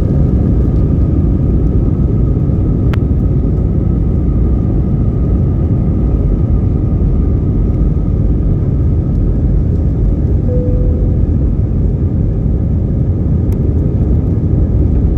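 Jet airliner heard from inside the cabin during takeoff: a loud, steady rumble of engines and airflow with a faint hum over it.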